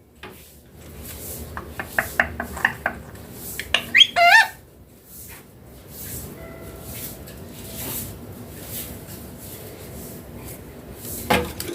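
A run of light clicks and taps about two seconds in, then one short gliding call from the talking parrot about four seconds in.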